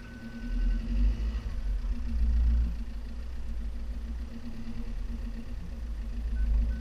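Lancia Delta car engine running under load while driving over rough, soft ground, with a low rumble that swells louder about a second in, again around two seconds in, and near the end.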